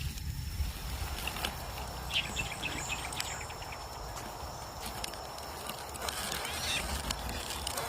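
Birds giving short, high chirps in two clusters, over a steady background of outdoor noise.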